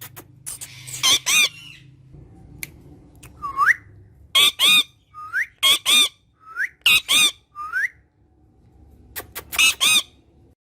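Parrot giving short harsh squawks, mostly in pairs, with four short rising whistles between them.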